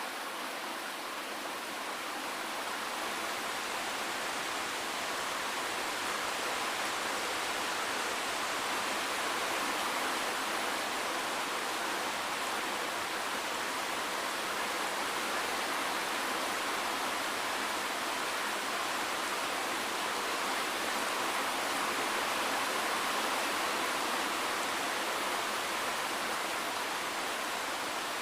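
Steady rain falling, an even hiss with no single drops standing out and almost no low rumble.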